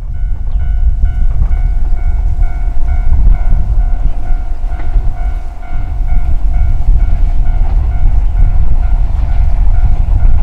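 Yoro Railway 620-series electric train running with a heavy, loud low rumble that grows louder near the end. A steady pitched tone with overtones sounds over it throughout.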